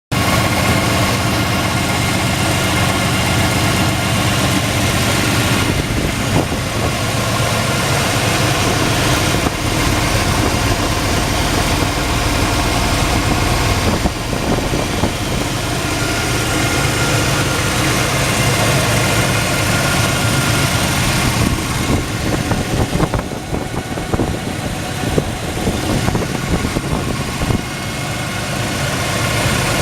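Supercharged V-8 engine of a 1991 GMC Stepside pickup idling steadily, with a brief uneven stretch late on.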